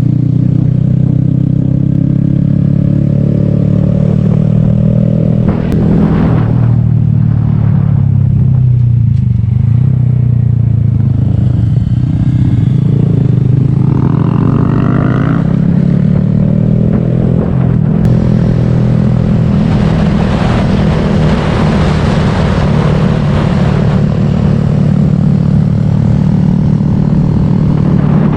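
Honda Grom's single-cylinder engine running under way through a Ransoto aftermarket exhaust with a deep tone, its pitch falling and rising as the throttle changes, with a rise in pitch about 14 seconds in. A rushing wind noise joins about 20 seconds in.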